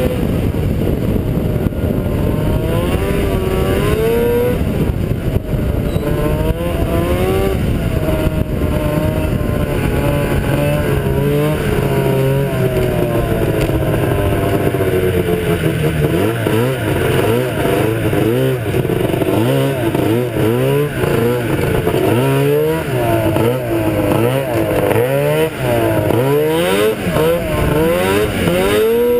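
Ski-Doo Blizzard 7500 snowmobile's two-stroke engine running hard, its pitch rising and falling over and over as the throttle is opened and eased off, with quick repeated revs in the second half.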